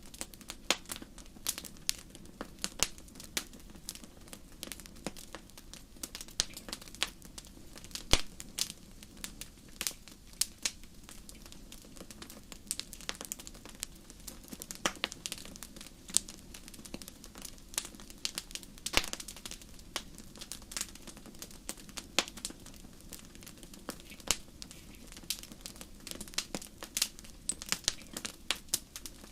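Wood fire crackling in a fireplace: irregular sharp pops and snaps, several a second, with a few louder ones, over a low steady rush of the burning fire.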